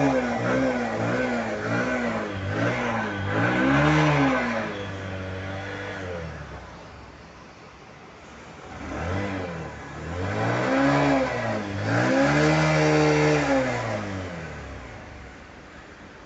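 Bajaj CT110 motorcycle's single-cylinder engine revved through its stock BS6 exhaust: a run of quick throttle blips, settling to idle, then a second set of revs that rise and fall back to idle near the end.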